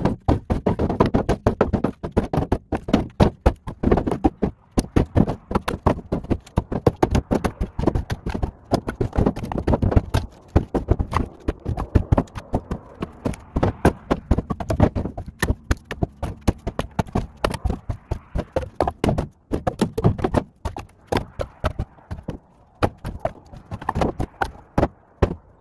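Split firewood knocking and clattering as pieces are tossed one after another onto a truck, in rapid, irregular knocks. The audio is sped up, so the knocks come several to a second.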